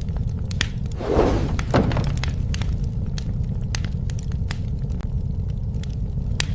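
Wood fire burning, with a steady low rumble and frequent sharp crackling pops. About a second in comes a louder, noisy burst lasting about a second.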